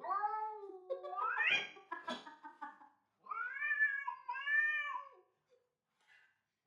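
A cat meowing in long, drawn-out calls that bend up and down in pitch, with a short pause about three seconds in before another long call.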